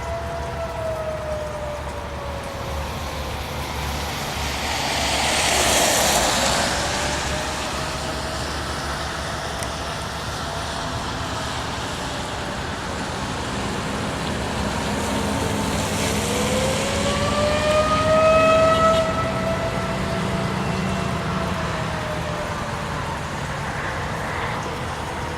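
Outdoor storm warning siren wailing: one steady tone that slowly sinks and rises again in pitch and loudness, twice over. A vehicle rushes past about six seconds in, and a low engine rumble comes through in the second half.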